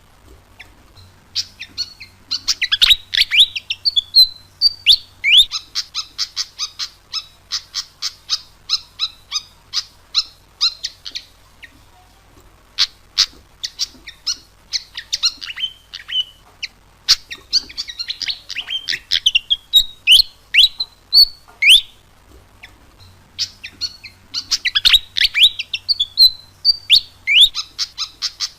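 Fantail (burung kipasan) singing: fast runs of sharp, squeaky chirps mixed with short rising and falling whistled notes, in bouts broken by brief pauses.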